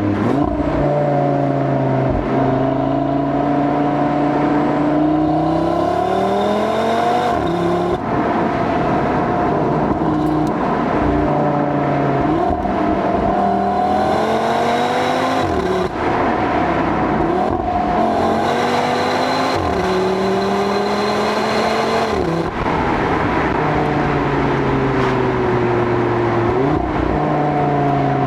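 Audi RS3's turbocharged 2.5-litre five-cylinder engine driven hard, its pitch climbing through each gear and dropping sharply at each upshift, several times over, with some easing-off where the pitch falls more slowly.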